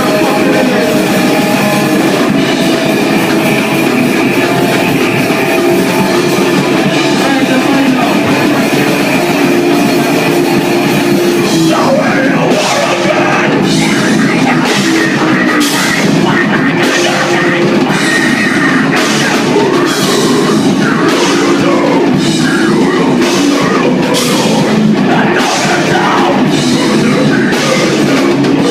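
Live heavy band playing loud: distorted guitars and a drum kit, with the drums hitting hard in a steady pounding pattern from about halfway through.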